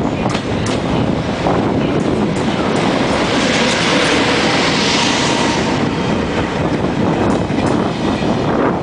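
TGV high-speed trainset moving through the station, its wheels clicking over the rail joints under a steady rumble and hiss, the hiss swelling for a few seconds in the middle. Wind buffets the microphone.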